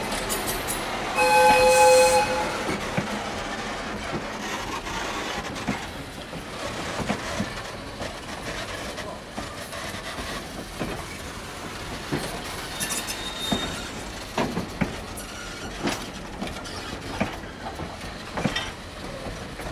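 Wooden-bodied heritage passenger coaches rolling slowly past, wheels clacking over rail joints and a brief flange squeal on the curve about two-thirds of the way through. About a second in, the locomotive sounds a loud chord-toned whistle blast of about a second.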